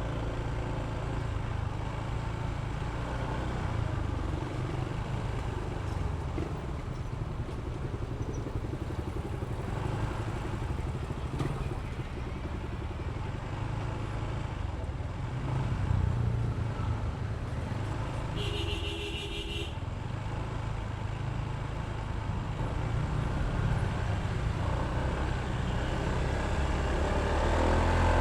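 Honda ADV160 scooter's single-cylinder engine running steadily under riding, with road noise; the engine gets louder near the end. A vehicle horn sounds once for about a second, about two-thirds of the way in.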